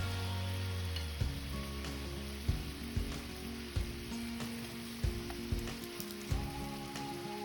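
Marinated chicken pieces sizzling steadily as they fry in butter in a pan, under soft background music with a steady beat of about one thump every 1.3 seconds.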